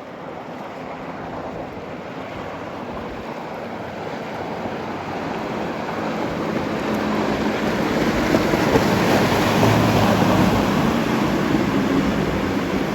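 Motorboats' engines and the rush of their hulls through the water, growing steadily louder as the boats approach, with a low engine drone coming through from about halfway in.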